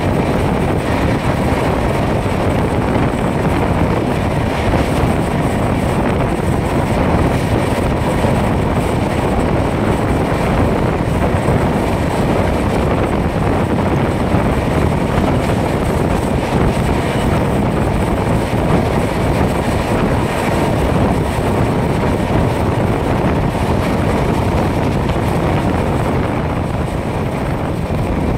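Express passenger train running at speed, heard from an open coach door: a steady rumble of wheels on the rails mixed with wind rushing over the microphone.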